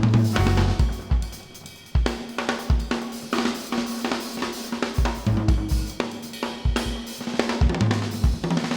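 Drum kit played in a jazz quartet: snare and bass drum hits with hi-hat and cymbals in an uneven, busy pattern. A single low note is held underneath for a few seconds in the middle.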